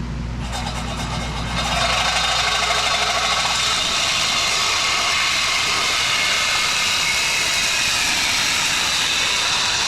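A power saw cutting through a metal exhaust pipe: it starts about half a second in, gets louder as the blade bites at about a second and a half, and then runs steadily through the cut.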